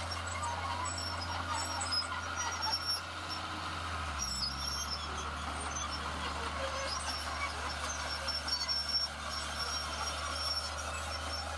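Diesel engine of heavy earthmoving machinery running with a steady low drone whose note shifts about four seconds in.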